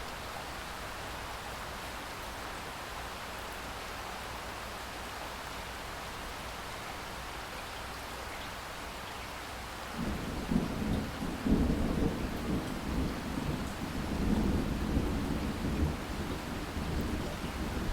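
Steady rain, and about ten seconds in a low rolling rumble of thunder sets in, swelling and fading unevenly under the rain.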